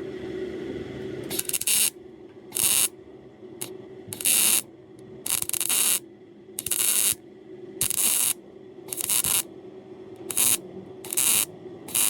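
Aerosol spray-paint can sprayed in about ten short hissing bursts, each under a second, coating the freshly welded exhaust and hanger.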